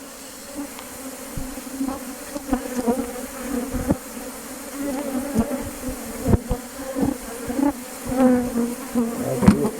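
Honey bees buzzing in numbers around an opened Langstroth hive: a steady drone whose pitch wavers as bees fly past. A few short knocks come through it.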